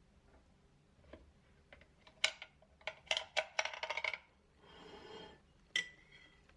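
A quick run of light clinks and clatters from small hard objects knocking together, some with a brief ring. This is followed by a short, soft rush of noise and then one last sharp, ringing clink.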